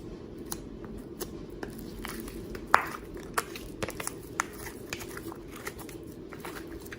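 Slime being handled, giving irregular small sharp clicks and pops, one louder pop about three seconds in, over a steady low hum.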